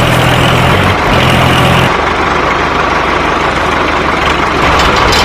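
Tractor engine running steadily, its low hum changing to a rougher rumble about two seconds in.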